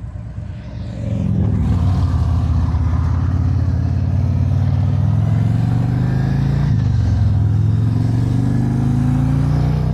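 Harley-Davidson Road Glide's V-twin engine pulling away and accelerating, its pitch rising steadily, dropping briefly at an upshift about 7 seconds in, then rising again.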